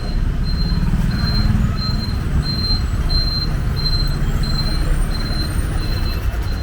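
Street traffic: a loud, steady low rumble of heavy vehicles. A high electronic beep repeats evenly about one and a half times a second throughout.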